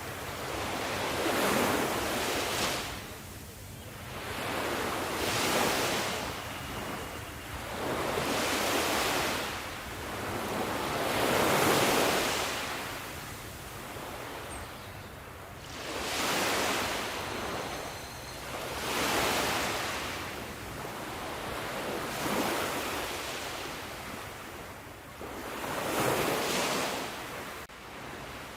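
Sea waves breaking. The surf swells and falls back in a steady rhythm, about every three to four seconds.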